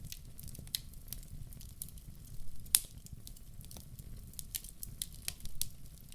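Wood fire crackling in a fireplace: irregular sharp pops and snaps, the loudest nearly three seconds in, over a steady low rumble.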